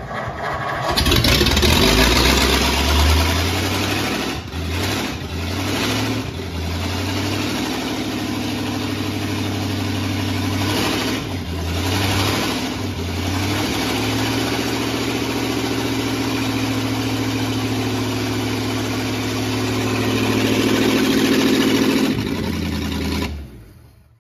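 1950 Ford F1's flathead V8 starting and running loud and open with no exhaust pipes or muffler fitted. Its note breaks a few times early on, it revs up near the end, and then it is shut off.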